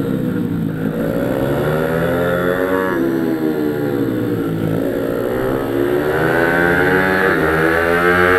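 Pit bike supermoto engine running hard, its revs dropping and climbing again about three times as the rider shuts off and gets back on the throttle.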